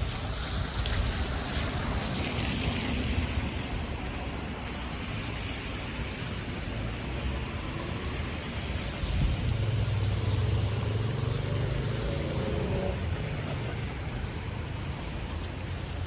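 Outdoor wind rumbling and buffeting on the microphone. A low hum swells in for a few seconds past the middle, then fades.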